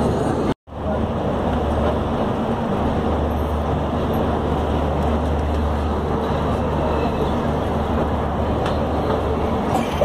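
Steady rumble and running noise of a moving passenger train, heard from inside the coach, with a low hum underneath. It drops out briefly under a second in, then carries on unchanged.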